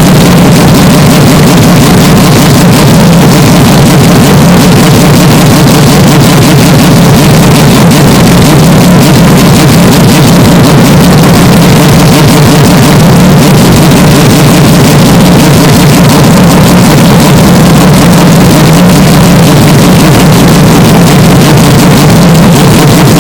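Hyundai Elantra N's turbocharged 2.0-litre four-cylinder engine running at a steady, unchanging pitch, with no revs rising or falling. The sound is boosted until it clips and distorts, holding an even, very loud level throughout.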